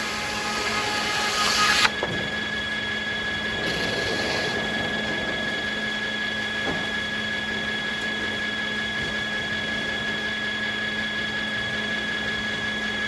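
Sawmill circular saw cutting beech, the cut ending abruptly about two seconds in. The mill then runs without load, a steady hum with a high, even whine.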